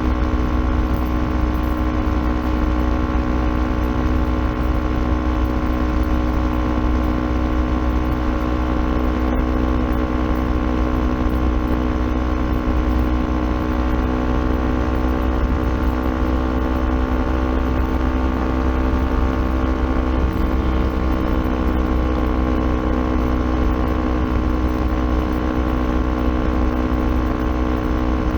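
Kawasaki Ninja 400's parallel-twin engine running through an aftermarket Akrapovic exhaust. It holds a steady, nearly constant engine speed, with only a slight drift in pitch around the middle and a constant low rumble underneath.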